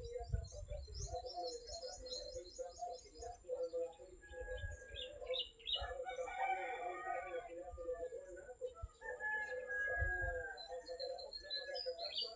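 Small birds chirping and twittering, with a rooster crowing about halfway through. A few low rumbles come and go underneath.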